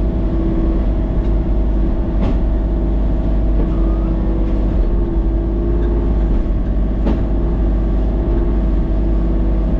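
Tractor engine running steadily at a constant speed, with a few brief sharp clicks or snaps over it.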